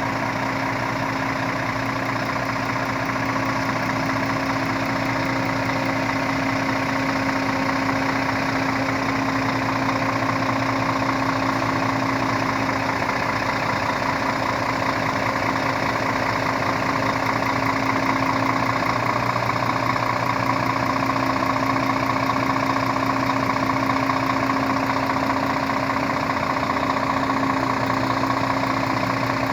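Scania S-series truck engine idling steadily, with an even low hum that does not change.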